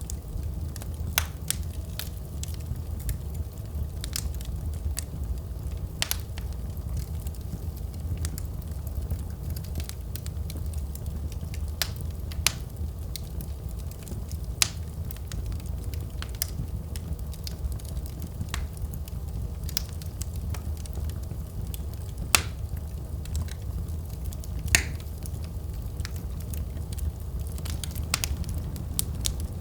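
Wood fire crackling in a fireplace: a steady low rumble of flames with sharp, irregular pops and snaps, two of them louder in the last third.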